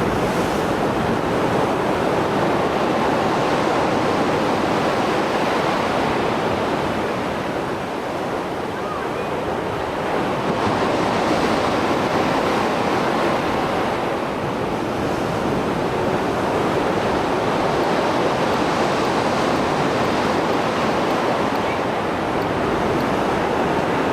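Mediterranean Sea surf after a storm: waves breaking and washing ashore in a continuous rush, swelling and easing every few seconds.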